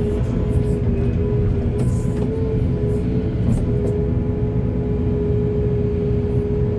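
Excavator's diesel engine running steadily, a low rumble with a constant whine over it and a few short hisses.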